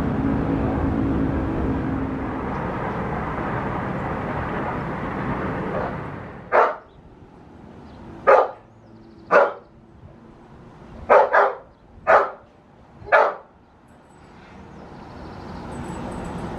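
A dog barks seven times in short single barks, one of them a quick double, spread over about seven seconds. Before the barking, a steady rumbling noise fades away about six seconds in.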